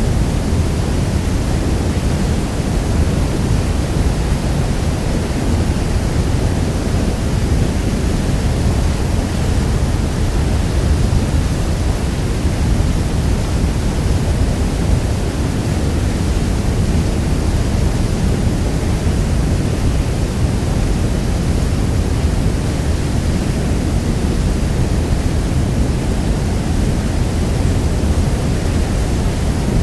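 Niagara Falls' water thundering down steadily: a dense, even rumble heaviest in the low end with a hiss above it.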